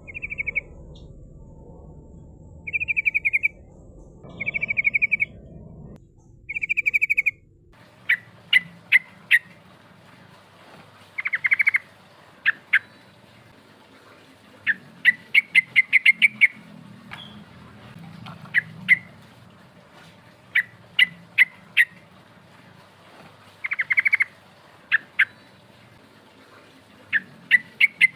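Yellow-vented bulbul (trucukan) calling in a bird keeper's lure recording. For the first eight seconds it gives short buzzy rattling phrases, each under a second long; then come clusters of quick, sharp chirping notes in runs of three to eight.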